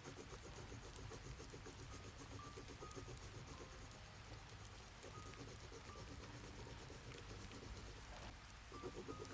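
Faint chirping insects, crickets by the sound, pulsing fast and evenly over a soft hiss, with a few sparse, gentle melodic notes from background music. The pulsing drops out briefly near the end.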